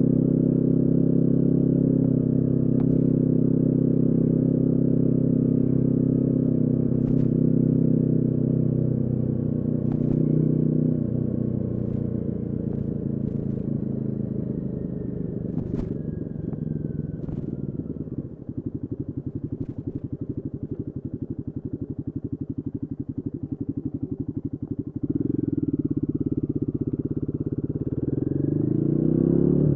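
Royal Enfield Guerrilla 450's single-cylinder engine running steadily, then the revs drop away. For several seconds it runs low with a fast, even pulsing, then picks up about two-thirds of the way in and revs climb again near the end.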